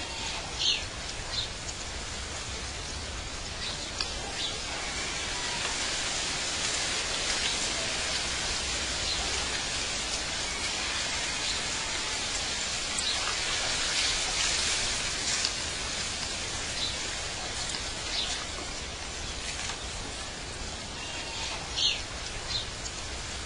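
Water from a pondless waterfall splashing steadily, a constant hiss, with a few short bird chirps over it.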